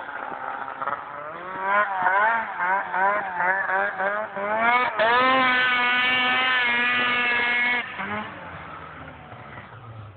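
2007 Arctic Cat M6 two-stroke snowmobile engine fitted with an HPG two-stage aftermarket exhaust, idling, then blipped several times in quick succession and held at high revs for about three seconds before dropping back to idle.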